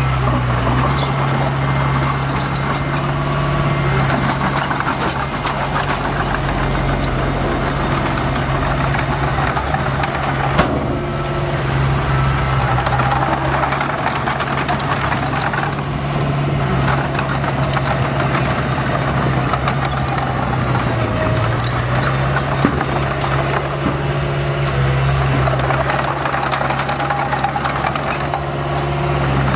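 A bulldozer's diesel engine running steadily, with scattered light metallic clinks over it.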